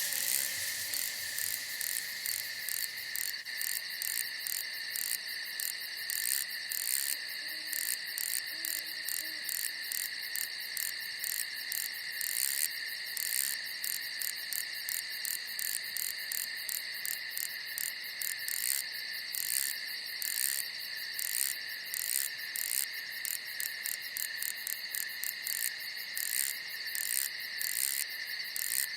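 A chorus of crickets and other night insects: a steady, continuous trill with fast, repeated high chirps over it.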